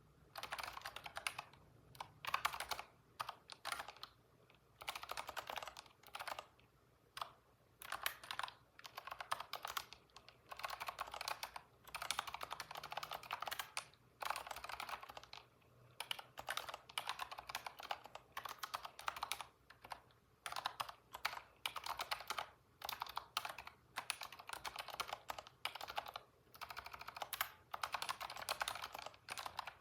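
Computer keyboard typing: rapid keystrokes in bursts of a second or two, broken by short pauses.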